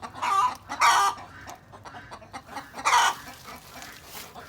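Chicken calling three times, two loud clucks close together in the first second and another about three seconds in.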